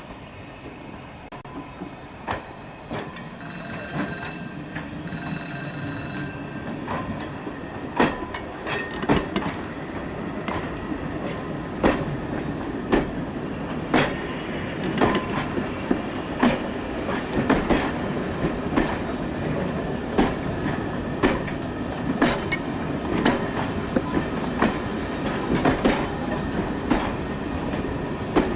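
Train hauled by Peckett saddle-tank steam locomotive No. 2150 drawing nearer, getting louder. Two short whistle blasts come about four and five and a half seconds in, then the wheels clatter over the rail joints.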